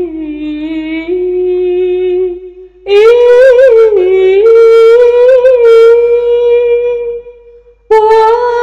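Solo female voice singing a long, wordless, ornamented passage of an Arabic hymn. It holds sustained notes, breaking for a breath about two and a half seconds in and again near the end, and the middle phrase is higher and louder.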